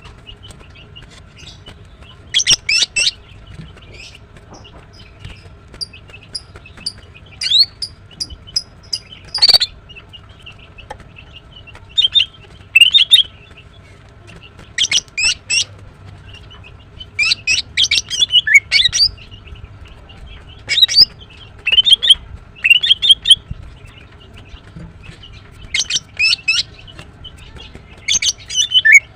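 Female greater green leafbird (Chloropsis sonnerati) calling: clusters of quick, high chirps every few seconds, with short pauses between.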